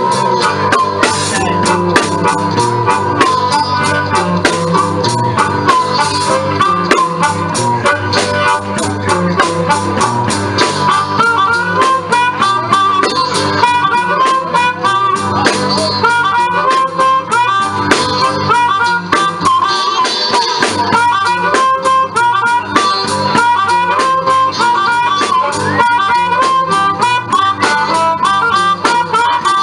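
Live blues band playing an instrumental passage: a harmonica solo over guitar and drums keeping a steady, fast beat.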